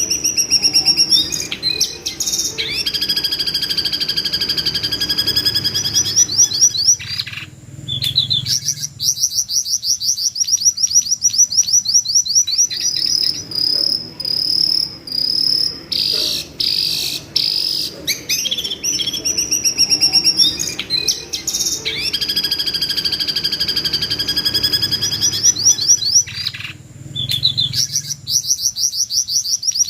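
Jongkangan bird calls: long, rapid trills of high-pitched notes alternating with steadier held high notes, with brief breaks. The same sequence comes round again about twenty seconds later.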